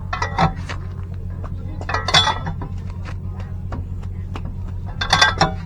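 Metal tools and parts clinking and clattering in three short bursts over a steady low hum.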